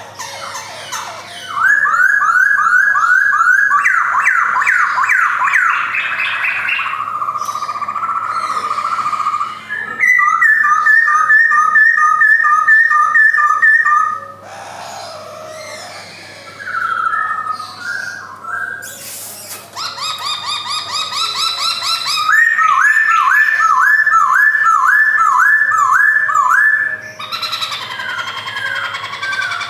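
Male black-throated laughingthrush (Garrulax chinensis) singing loud whistled phrases, each a fast run of repeated notes, with short quieter breaks between phrases.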